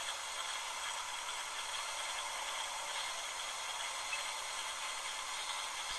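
Steady hiss of background noise, even throughout, with no distinct calls or knocks.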